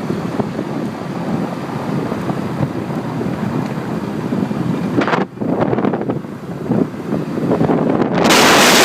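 Wind buffeting the microphone of a moving scooter, a steady rush with gusts, and one especially hard blast about eight seconds in.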